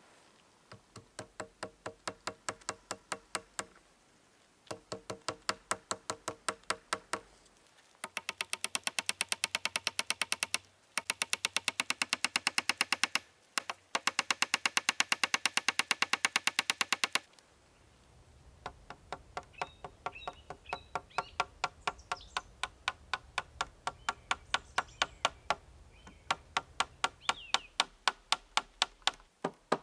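Quick, regular tapping strokes, each with a short ringing tone. They start at a few a second, speed up to about ten a second in the middle, then slow again, with short pauses between runs.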